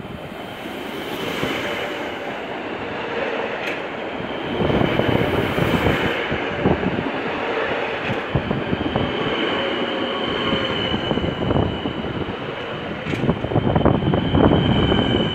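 Stadler Flirt electric multiple unit pulling into the station and running close past, its rumble growing louder over the first few seconds, with a thin high squeal over it.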